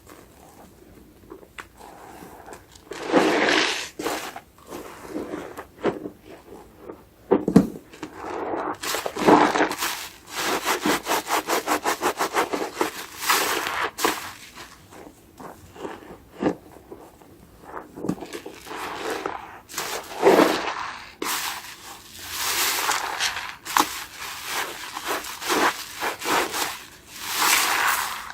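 A soapy, foam-laden sponge being rubbed and squeezed: irregular wet scrubbing strokes, with a quick even run of about six strokes a second for a few seconds a little past a third of the way in.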